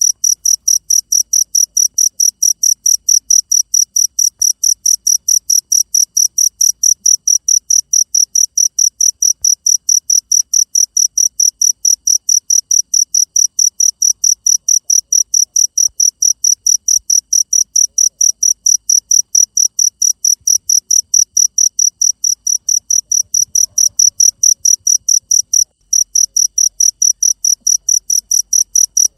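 Cricket chirping steadily in a fast, even rhythm of about four high chirps a second, with one brief break near the end.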